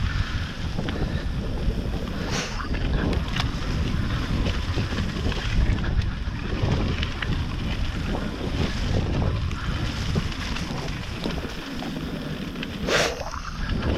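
Wind buffeting the microphone over the rumble of a mountain bike riding a wet trail, with small rattles and knocks and one sharp knock near the end.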